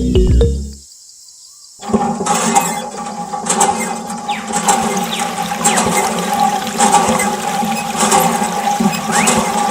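A mini water pump spraying water, with continuous splashing and a steady hum under it that starts about two seconds in.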